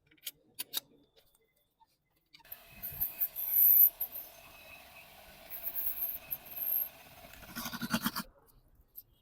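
Scratchy rubbing and scrubbing of a spark plug being cleaned, in spells that start about two and a half seconds in and stop just after eight seconds, loudest near the start.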